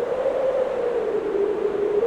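Strong blizzard wind howling: a single moaning tone that rises slightly in pitch about half a second in and then slowly falls, over a steady rushing hiss.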